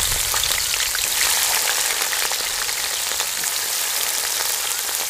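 Sliced onions frying in hot cooking oil: a steady sizzle with many small crackles and pops.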